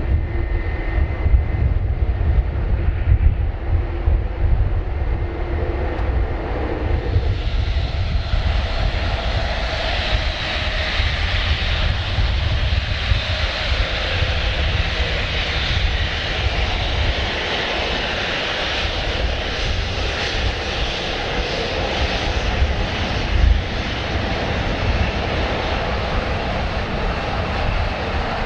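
Jet airliner engines running, a deep rumble under a rising roar; the high hiss builds from about seven seconds in and holds steady.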